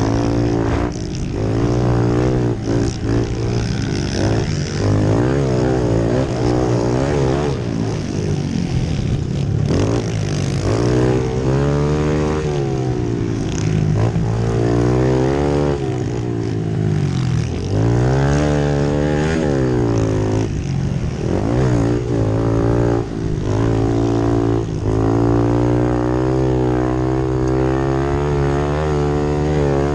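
Pit bike engine revving hard while riding, its pitch climbing and dropping over and over, with short breaks where the throttle is let off.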